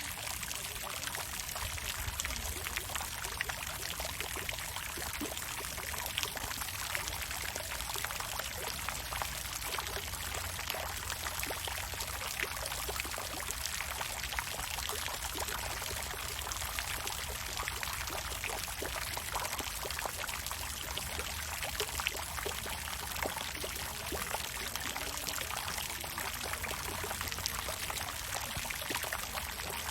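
Water fountain splashing steadily: a continuous pour of falling water with many fine splashes, over a low steady rumble.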